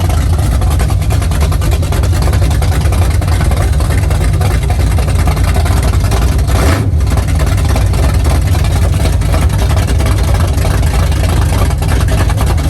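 Car engines running, a steady low rumble, as cars roll in.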